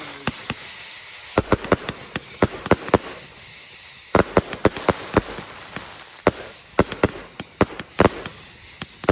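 Fireworks going off in an irregular string of sharp cracks and bangs over a hiss. A high whistle runs through it, slowly falling in pitch.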